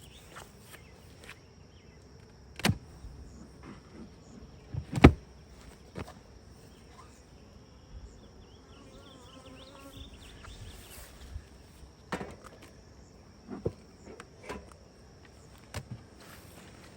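Honey bees buzzing around an open hive, with faint wavering buzzes as they fly past. Several sharp knocks and clunks from the hive boxes and frames being handled, the loudest about five seconds in.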